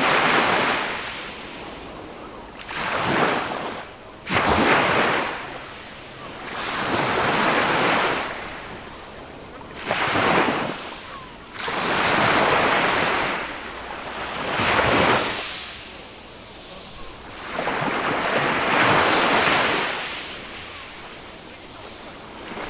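Small waves of a calm sea breaking and washing up a sandy beach one after another, a surge of surf every two to four seconds that swells and fades away.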